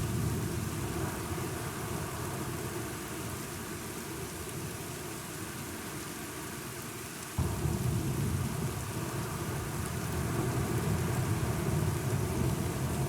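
Steady rain with a low, rolling thunder rumble that slowly dies down, then cuts back in suddenly and loudly about seven seconds in and keeps rumbling.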